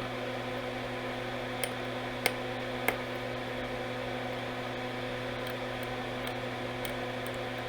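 Steady hum of workbench equipment, with three light clicks between about one and a half and three seconds in as a small tool touches the thumb drive's circuit board.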